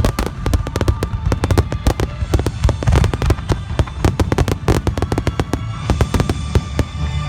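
A dense barrage of fireworks shells bursting, many sharp bangs and crackles a second over a continuous low rumble.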